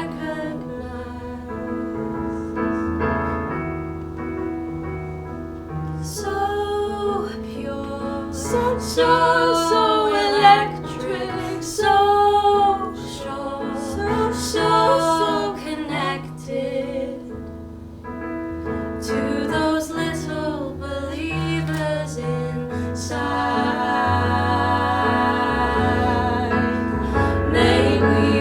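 Musical-theatre ballad: piano accompaniment alone at first, then female voices singing together from about six seconds in, swelling fuller and louder near the end.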